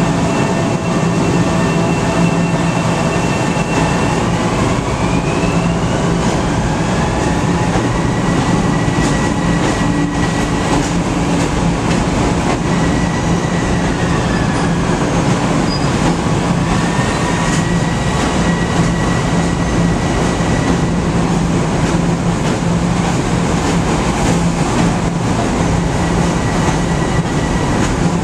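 Metro-North electric commuter train pulling out and moving past along the platform: a steady loud rumble of the cars, with a high electric whine that rises in pitch about four seconds in as the train picks up speed.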